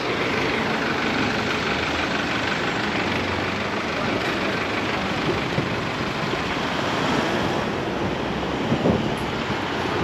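Busy city street traffic: cars and buses driving past in a steady, unbroken noise.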